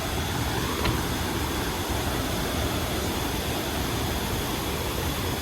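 Steady, even rush of river water running high and fast.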